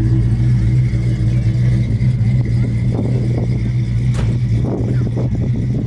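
Car engine running steadily at idle, loud and low-pitched. Faint voices come in around the middle, and there is a single sharp click about four seconds in.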